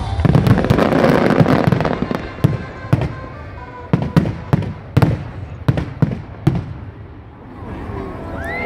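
Fireworks going off: a dense crackle of rapid bangs for about two seconds, then single sharp bangs spaced roughly half a second apart that thin out and die away.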